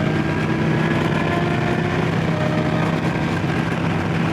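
Motorcycle engine running steadily, with one tone climbing slightly in the first second.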